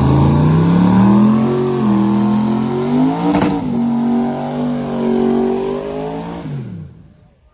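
Drag car accelerating hard on a test pass, its engine pitch climbing through the gears with a sharp crack at a shift about three and a half seconds in. The engine note then falls and fades away as the car goes off down the track.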